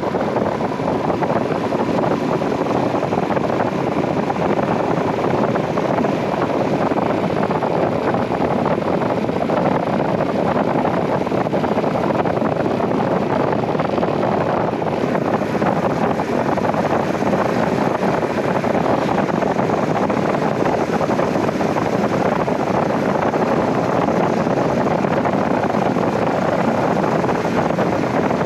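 Steady riding noise from a Royal Enfield Himalayan 411 motorcycle under way, with wind rushing over the microphone, unchanging throughout.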